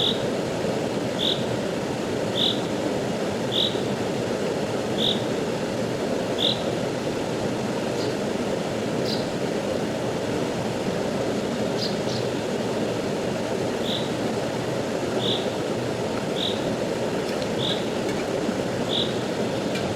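Rushing stream water making a steady rush. A short high chirp repeats about once every second and a bit, breaking off for several seconds midway and then resuming.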